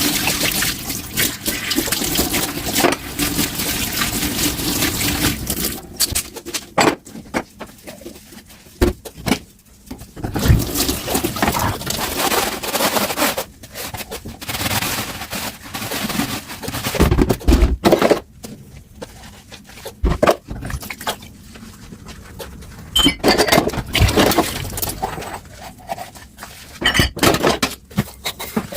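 Tap water running into a kitchen sink while dishes are washed, steady for the first few seconds, then splashing unevenly with sharp knocks and clinks of dishes being handled under the stream.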